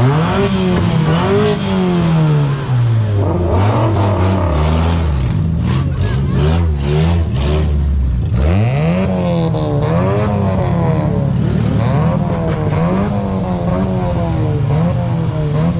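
Car engine being revved repeatedly, its pitch climbing and falling every second or so, with a drop to a low idle and a sharp climb again about halfway through.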